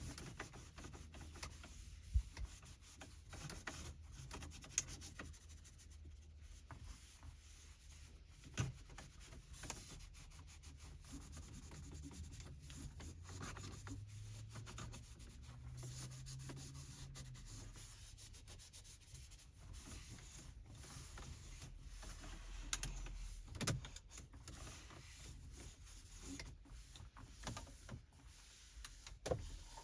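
Microfiber cloth rubbing and wiping over car interior surfaces, with a few sharp light taps or knocks spread through.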